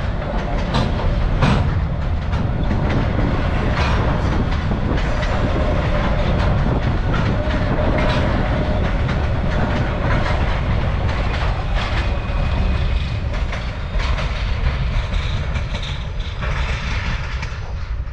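A train rolling past with a steady rumble and irregular clicking of wheels over the rail joints, easing off a little near the end.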